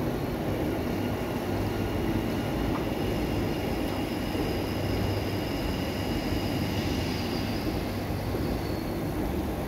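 ScotRail Class 320 electric multiple unit pulling in past at close range: a steady rumble of wheels on track, with a faint high-pitched squeal through most of it.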